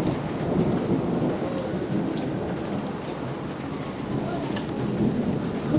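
Heavy rain falling steadily in a thunderstorm, with a low rumble of thunder and a few sharp drip ticks.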